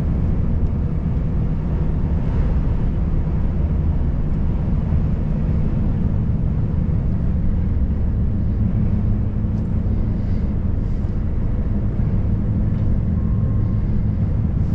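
Volvo FH540 truck's 13-litre inline-six diesel running steadily under way, a low even drone with road noise.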